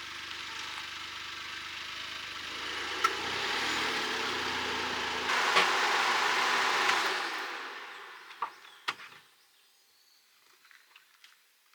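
A car running for several seconds, growing louder about five seconds in and then fading away to quiet, with a few faint clicks near the end.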